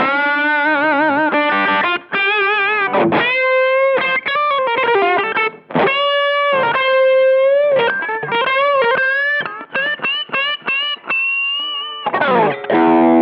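Electric guitar through a Behringer Vintage Overdrive TO100, a Tube Screamer-style green overdrive, playing a single-note lead line with wide vibrato and string bends. Near the end a strummed chord comes in.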